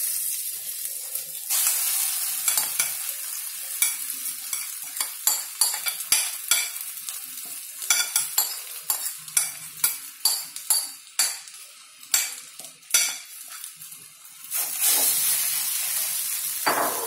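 Grated raw mango sizzling as it hits hot oil and fried green chilies in a stainless steel pan, with a steel spoon clicking and scraping against the pan as it is stirred in. The sizzle swells again near the end.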